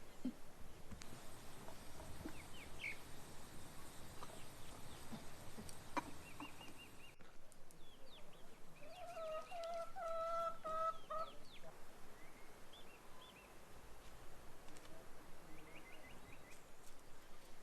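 A rooster crowing once, one drawn-out call lasting about two and a half seconds, about nine seconds in. Small birds chirp and trill now and then throughout.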